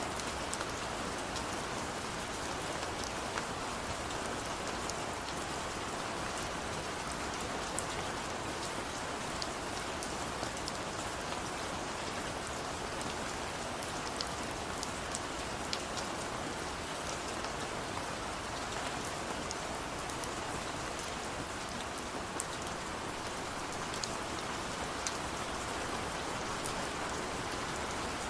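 Steady rain falling: a constant even hiss with scattered sharp drop ticks.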